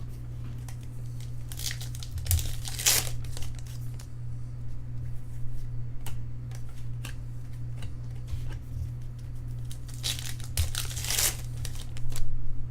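Foil trading-card pack wrappers being torn open and crinkled, in two spells, about two to three seconds in and again about ten to eleven seconds in, with light handling clicks between them. A steady low electrical hum runs underneath.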